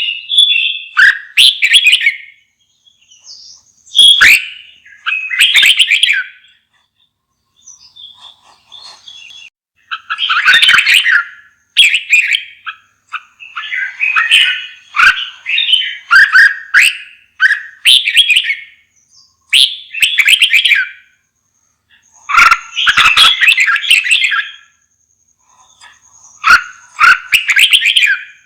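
Red-whiskered bulbul singing: loud, varied warbled phrases of a second or two each, repeated with short pauses between them.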